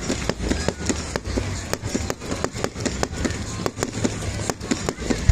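Fireworks going off in a rapid, irregular string of sharp bangs and crackles, several a second, over a low rumble, with the loudest bang right at the end.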